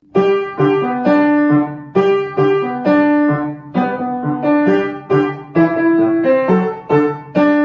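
Piano music: struck notes and chords in a steady rhythm.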